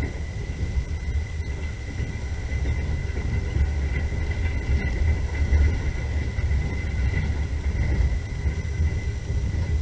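Steady low rumble of a moving train, heard from inside the carriage, with a faint steady high tone above it.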